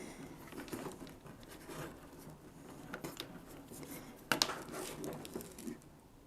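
Faint handling of kayak deck bungee cord and plastic hardware: rustling and scattered light clicks, with one sharper click about four seconds in.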